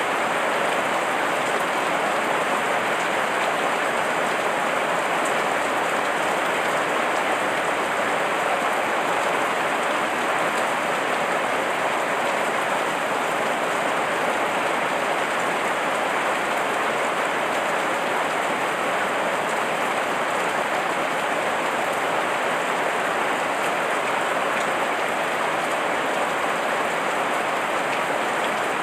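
Heavy rain falling steadily, an even, unbroken hiss of many drops with no let-up.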